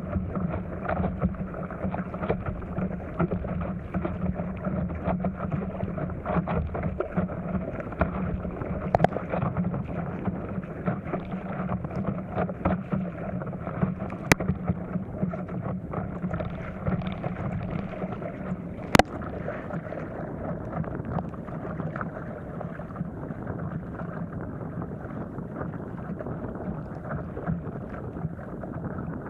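Wind buffeting the microphone and water splashing against an inflatable stand-up paddleboard moving through choppy water. Two sharp clicks stand out in the second half.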